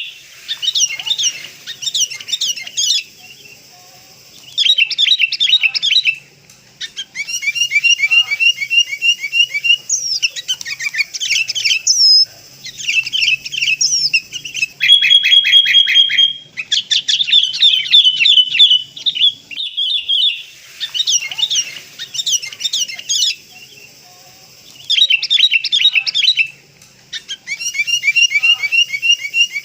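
Sooty-headed bulbuls calling and chattering in bursts of a few seconds with short gaps between. Some bursts are rapid runs of repeated notes, and one is a brief held whistle. This is a lure call (suara pikat) used to draw in wild bulbuls.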